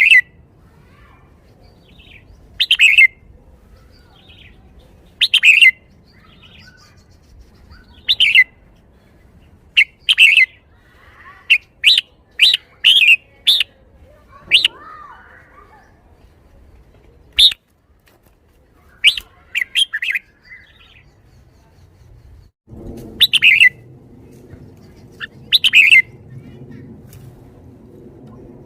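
Red-whiskered bulbul singing short, loud, clear phrases, one every one to three seconds, with brief pauses between them.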